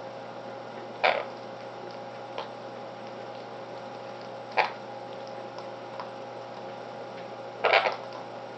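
Three brief sharp sounds from a pet conure at its napkin, about a second in, midway and near the end, the last one longest, over a steady low background hum.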